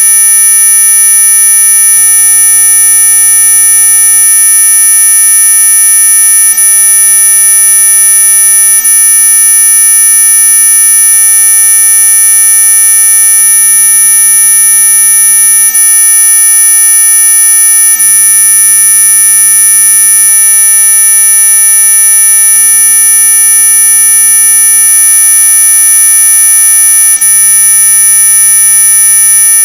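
Synthetic anti-mosquito repellent tone: a loud, steady, high-pitched electronic whine made of several pure tones sounding at once, with the strongest near the top of hearing rather than truly ultrasonic.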